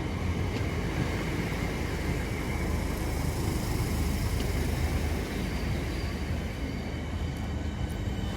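A Southeastern Class 465/466 Networker electric multiple unit of three units running in past the platform as it arrives. The steady noise of wheels on rail and the train's motors carries on without a break, with a few faint high tones above it.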